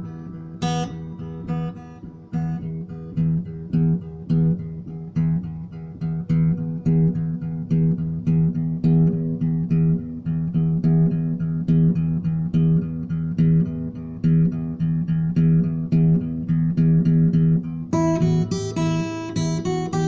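Instrumental music on plucked acoustic guitar: a steady, even pattern of repeated low notes. Brighter, higher notes join near the end.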